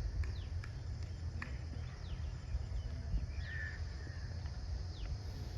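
Birds chirping in the background: short falling calls repeating every second or so, over a steady low rumble.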